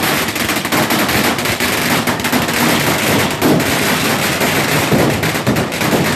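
Firecrackers going off in a dense, irregular string of sharp bangs and cracks with no break.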